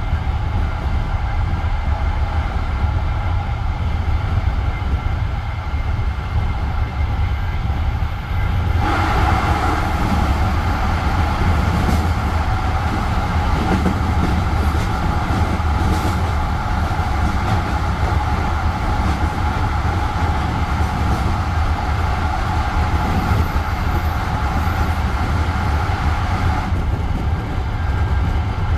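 Passenger train carriage running at speed, with a steady low rumble of wheels on the rails. From about nine seconds in until near the end, a louder, brighter rushing noise joins it, then drops away again.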